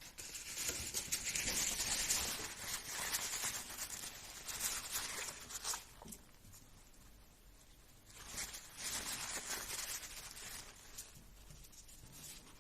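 Scratchy rubbing and rustling from hands working over the small parts of an RC car's differential, in two long stretches with a short lull between, as of old grease being wiped off.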